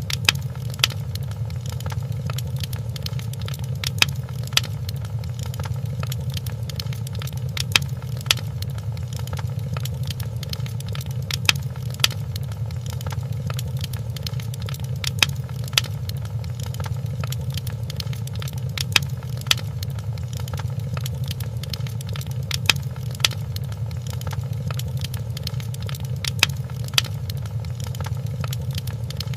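Wood fire burning in a fireplace: a steady low rumble with sharp crackling pops, the pops coming in pairs about every three to four seconds.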